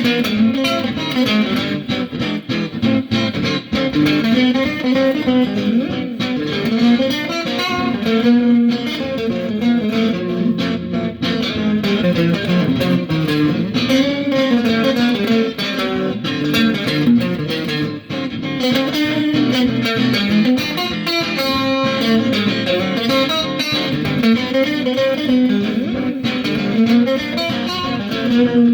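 A guitar playing continuously, a steady stream of plucked notes and moving melodic lines.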